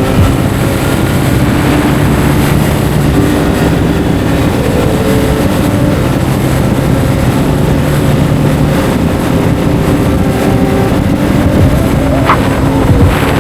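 Kawasaki Z900's inline-four engine running steadily while the motorcycle is ridden, its pitch shifting slightly a few times, over a steady rush of riding noise.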